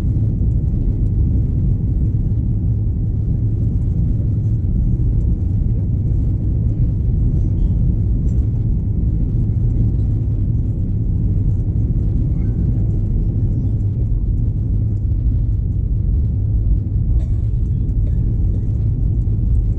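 Steady low rumble inside an Airbus A321-211 passenger cabin: the CFM56 engines and airflow heard from a seat in the rear of the cabin.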